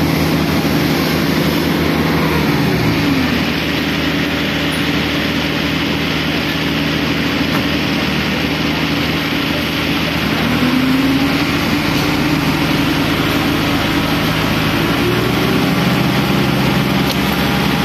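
A heavy engine running steadily. Its pitch dips about three seconds in and rises briefly around ten seconds, as if the engine is being throttled or loaded.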